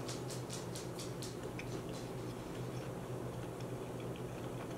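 Close-up chewing of a crisp fried plantain (tostón): crunches at about four a second that fade after a second or so into softer, sparser chewing, over a steady low hum.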